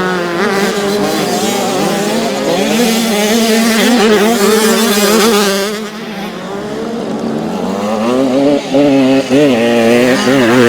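Several kids' motocross bikes racing together, their engines revving up and down over and over, with the pitches overlapping. A hiss sits over the engines for a few seconds in the middle, then the sound briefly drops before they climb again.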